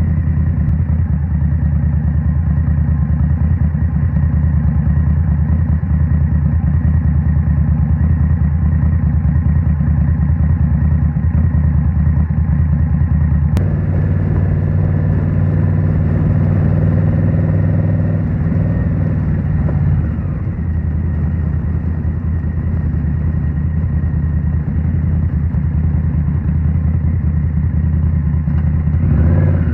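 Indian Scout Rogue's 69 cubic-inch V-twin running through a Rinehart slip-on exhaust at a steady cruise. The engine note falls about two-thirds through as the throttle eases, then rises and gets louder near the end as the throttle opens again.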